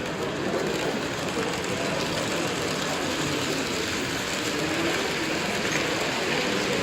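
Model train running on an exhibition layout, a steady rolling rumble over the general din of the hall.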